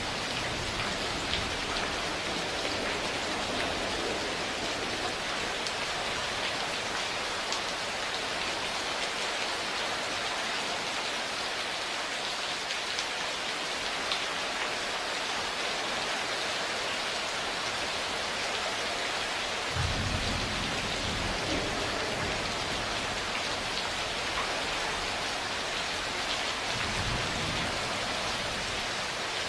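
Steady rain falling, with scattered drop ticks. Low thunder rumbles roll in about two-thirds of the way through and again near the end.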